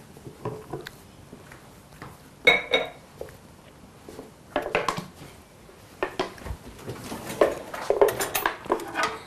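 Kitchen utensils knocking and scraping against dishes, with one ringing clink about two and a half seconds in and a busier run of light knocks and scrapes in the second half.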